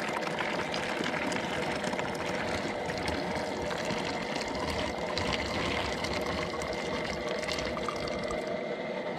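Boiling water melted from snow is poured from a pot into a plastic bottle. The pour runs steadily for several seconds.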